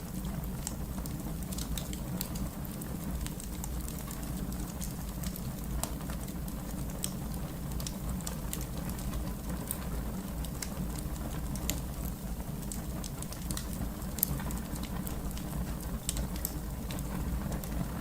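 Fire crackling: irregular sharp pops and snaps over a steady low rumble, with one louder pop about 14 seconds in.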